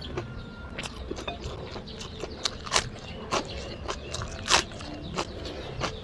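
Close-up eating sounds: chewing fried rice and biting raw Chinese cabbage, with irregular crisp crunches about twice a second. The loudest crunch comes about halfway through, as a cabbage leaf is bitten.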